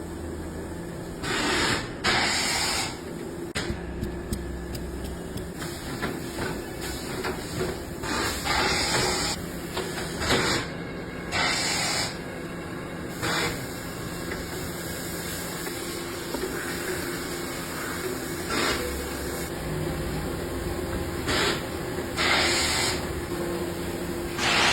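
Repeated short bursts of hissing air, each about a second long, at uneven gaps, over a steady low machine hum.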